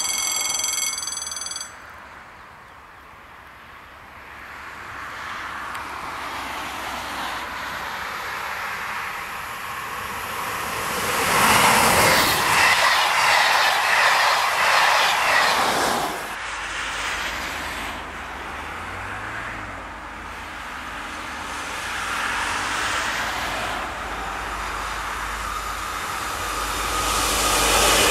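Electronic level-crossing bell ringing for the first second and a half and then stopping. A passenger train of coaches rises to a loud, close pass and breaks off suddenly; then a freight train hauled by an SNCF Fret electric locomotive approaches with a low rumble and passes close near the end.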